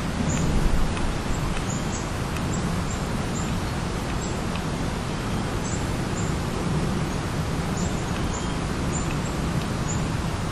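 Outdoor ambience: a steady rushing background noise with short, high chirps from small birds scattered through it, and a brief low swell about half a second in.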